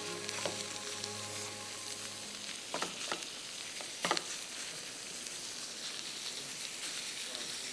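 Chicken mince frying in oil in a pan, a steady sizzle, while it is stirred and crushed to break up lumps; a few short knocks of the utensil against the pan about three and four seconds in.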